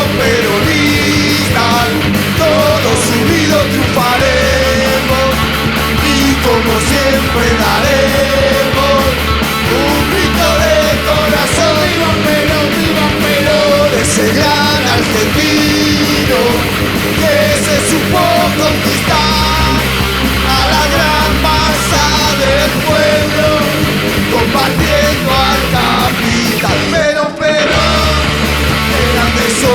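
Rock band playing a punk-rock style instrumental passage with distorted guitars, bass and drums.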